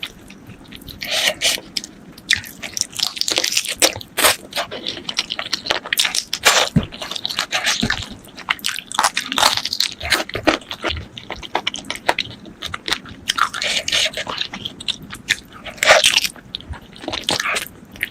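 Chicken feet being bitten and chewed: many irregular crunching bites and chewing clicks in quick succession.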